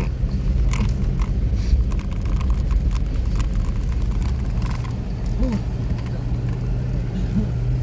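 Vehicle engine and road rumble heard from inside the cabin while climbing a mountain road, a steady low drone with a few light rattles and clicks.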